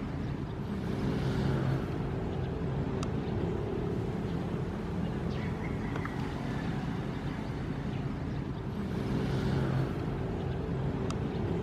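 Ocean waves: a steady low rush of surf that swells twice, about a second in and again near the end.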